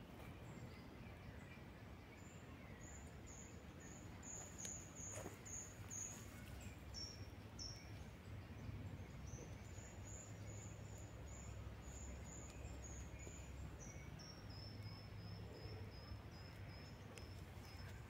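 A small songbird singing runs of quick, short, very high-pitched notes: three runs, the last a little lower in pitch. A faint low rumble sits underneath.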